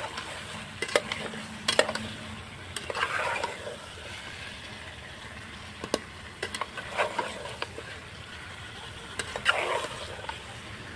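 Chicken pieces frying in oil with onion, garlic, ginger and green chilli, sizzling steadily while being stirred and scraped round the pan. Sharp clicks of the stirring spoon against the pan come now and then, and there are a couple of longer scraping strokes.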